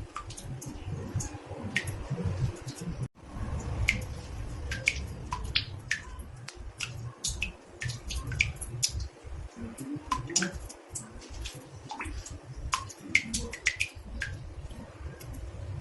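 Water drops falling into a bathtub: irregular plinks, sometimes several a second, over a low rumble, with a brief break about three seconds in.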